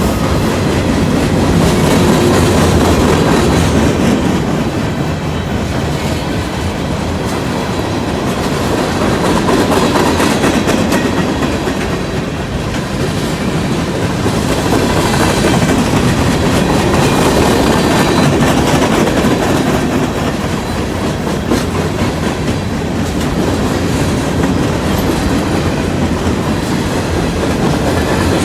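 Freight train's cars rolling past at close range: a steady rumble with wheels clacking over the rail joints, swelling and easing every few seconds.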